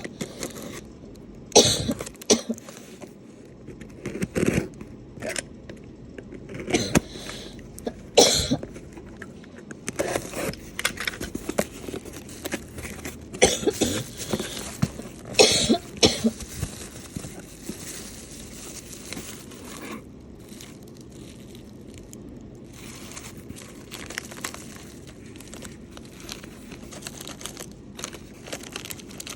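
Chocolate box packaging being handled and opened: a series of sharp clicks and knocks with rustling. The sounds come thickest in the first half, then thin out to lighter handling noise.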